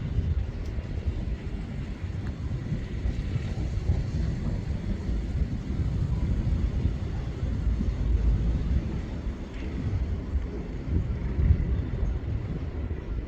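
Low, continuous rumble of a jet airliner's engines heard from a distance, unsteady and gusting in level.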